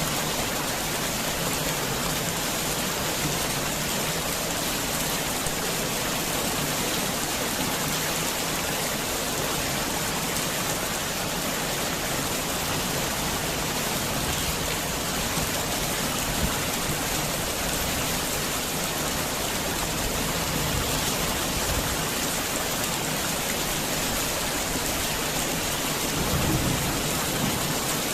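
Heavy rain falling steadily on a garden house, with a low rumble of thunder near the end.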